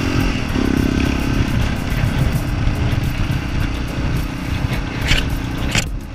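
Yamaha XT660 Ténéré's single-cylinder four-stroke engine running steadily while the bike is ridden along, with wind noise on the microphone; the engine note swells for about a second near the start.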